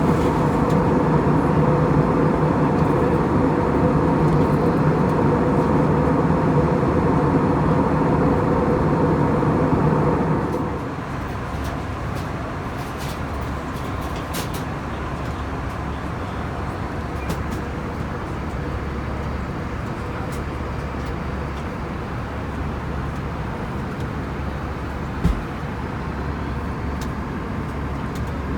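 Steady cabin noise of an Airbus A321 in flight, airflow and its CFM56 engines, with faint steady engine tones. About ten seconds in the noise drops to a lower, steady level, and there is a single short knock near the end.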